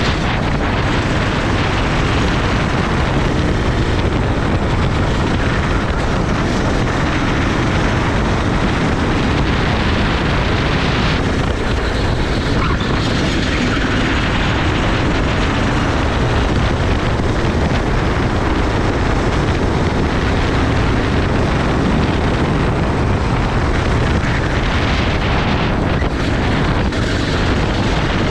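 Racing kart engine running hard on a lap, its pitch rising and falling as the driver accelerates and lifts, with heavy wind rushing over the onboard microphone.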